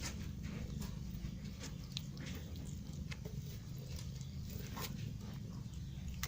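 A kitten chewing and crunching on a dead mouse: irregular short wet smacks and crunches, a few a second, over a steady low rumble.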